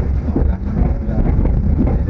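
Steady low rumble of a moving passenger train, heard from a coach window, with wind buffeting the microphone and one sharp knock right at the start.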